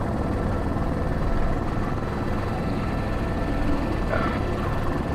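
Airbus H125 helicopter running steadily in flight, its turbine and main rotor heard from inside the cockpit.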